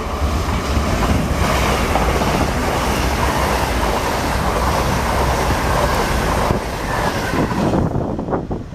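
A train passing through the station, a loud steady rushing noise that falls away sharply about eight seconds in.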